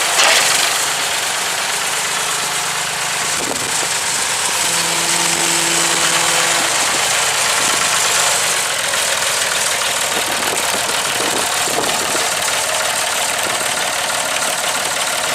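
Massey Ferguson 2135 industrial tractor's diesel engine running steadily at idle.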